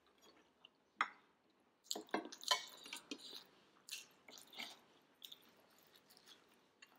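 Eating sounds: quiet chewing with wet mouth clicks and smacks, a sharper click about a second in.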